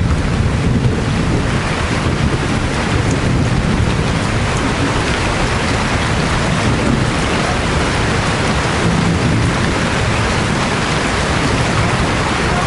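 Steady heavy rain, with a low rumble of thunder underneath that is strongest in the first second or so.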